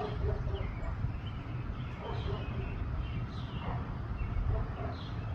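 Wind rumbling on the microphone, with short descending bird chirps now and then.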